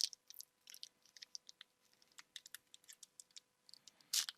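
Faint, scattered light clicks and ticks of trading cards being handled and flicked through, with a sharper click near the end.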